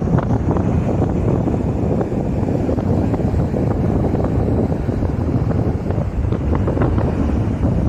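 Rough sea with waves breaking and washing, under strong wind buffeting the microphone with a low, steady rumble.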